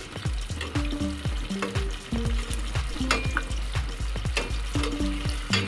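Firm tofu slices sizzling as they fry in hot oil in a stainless steel pot, while a slotted metal spatula turns them over, clicking and scraping against the pot.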